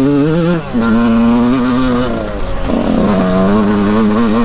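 2001 Yamaha YZ125's two-stroke single-cylinder engine running under way, its note held mostly steady. The pitch drops sharply about half a second in, and dips again around two to three seconds in before it picks up and holds steady once more, as the throttle is eased and reopened.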